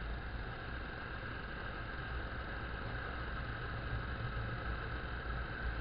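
Motorcycle engine running steadily at road speed, with an even rush of wind and road noise.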